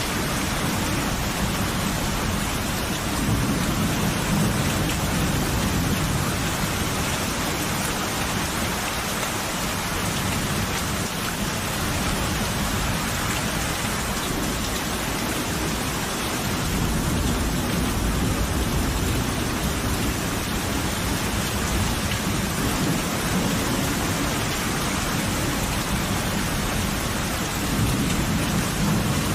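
Thunderstorm: steady heavy rain with low rolling thunder that swells and fades, loudest a few seconds in and again through the second half.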